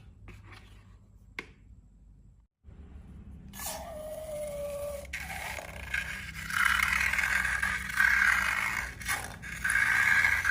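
Scraping and rubbing during slime mixing: faint at first with a single click, then a brief squeak falling slightly in pitch, followed from about halfway by louder, repeated scraping strokes.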